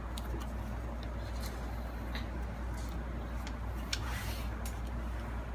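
Scattered light clicks and taps from handling laptop parts, with a brief rustle about four seconds in, over a steady low hum.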